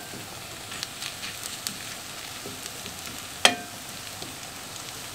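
Egg and diced-potato mixture sizzling steadily in an oiled frying pan while a metal spoon spreads it flat, with faint scraping ticks and one sharp clink of the spoon against the pan about three and a half seconds in.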